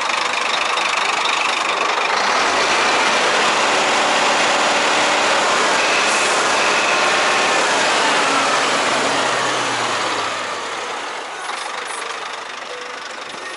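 Scania 114 380 truck's diesel engine running. The engine note rises and gets louder about two seconds in, holds steady, then falls away after about ten seconds.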